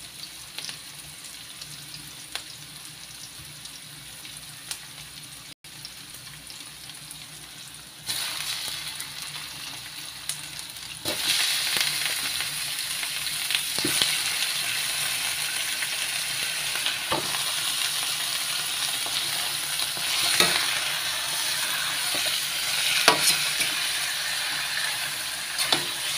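Chopped onion and garlic sizzling in a wok. The sizzle jumps louder about eight seconds in, and again a few seconds later, as raw chicken pieces go into the hot pan. Then a metal spatula scrapes and knocks against the wok now and then as the chicken is stirred.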